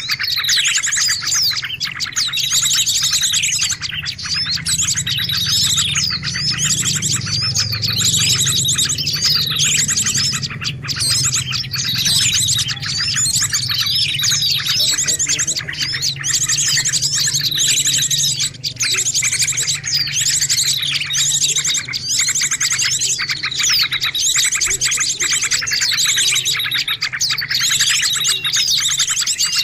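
Bird-lure recording of many small birds chirping and twittering at once, with rapid high calls and short trills overlapping without a break. A faint low hum runs underneath.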